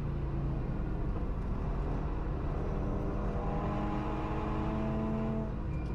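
Onboard sound of an Audi S1 with a swapped-in RS3 2.5-litre five-cylinder engine pulling hard on track, its note climbing steadily in pitch through a gear and then dropping off near the end, as at an upshift or a lift, over tyre and wind noise.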